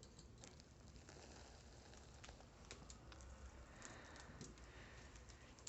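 Near silence: room tone with faint scattered light clicks and rustles.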